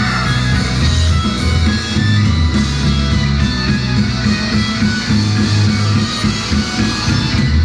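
Loud rock music in an instrumental passage with no singing: electric guitar over a steady bass-and-drum beat.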